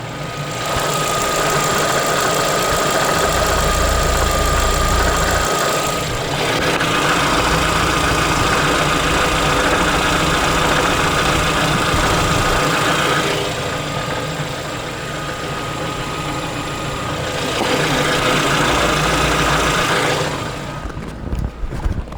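Lada XRAY engine idling after a cold start, with a knocking from the manual gearbox that, per the owner, stops when the clutch is pressed. The sound shifts and drops a few times.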